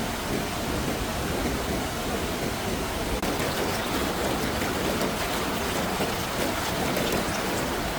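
Steady, even hiss of water, with no break or change.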